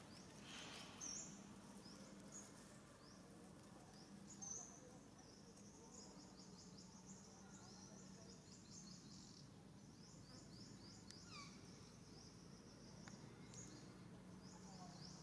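Faint outdoor ambience of small birds chirping: quick series of short high chirps repeat through the middle, and a couple of lower falling whistles come near the end, over a low steady hum.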